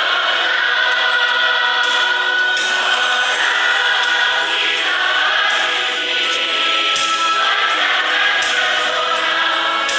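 A church congregation singing together in many voices as a choir, with long held notes.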